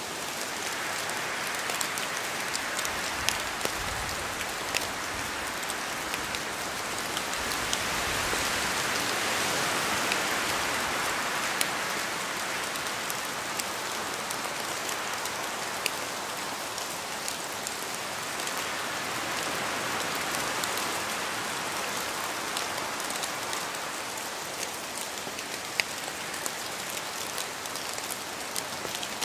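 Steady rain, a dense even hiss with individual drops pattering and ticking on a surface, swelling a little for a few seconds and easing again.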